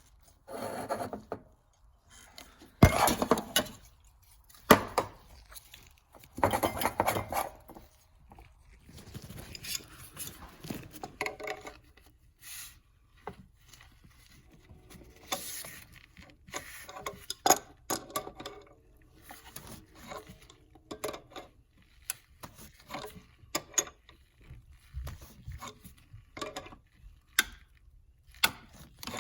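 Metal hand tools and engine parts clinking, scraping and rubbing in irregular knocks, with a sharp knock about three seconds in.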